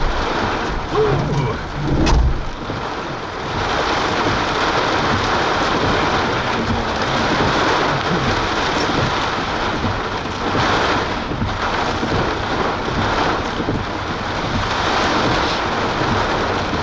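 Steady rain hissing and pattering on a storm-chase vehicle in the core of a thunderstorm, with a short low thump about two seconds in.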